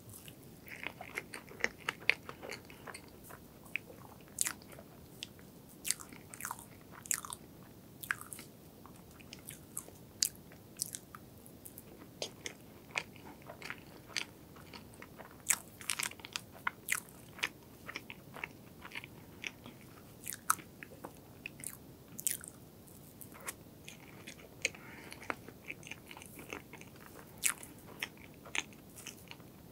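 Close-miked eating of soft strawberry crepe cake with cream: wet mouth clicks and smacks as it is chewed, coming irregularly a few times a second.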